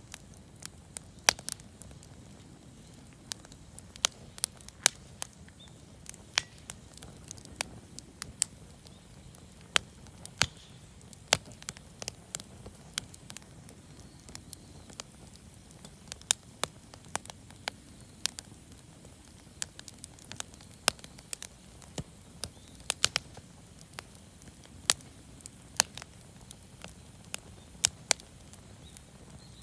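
Campfire of scrap-wood offcuts and firewood crackling: sharp, irregular pops and snaps, several a second, over a low steady rush of burning.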